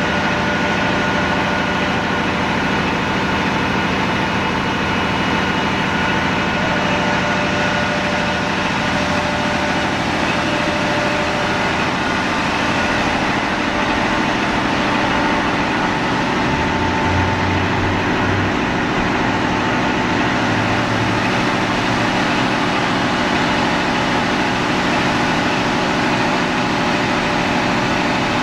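Fire department aerial ladder truck's diesel engine running steadily at idle, with a brief low hum change about two-thirds of the way through.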